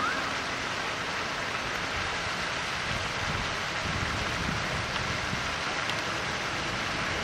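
Steady rushing noise of running water, with one short rising bird chirp right at the start.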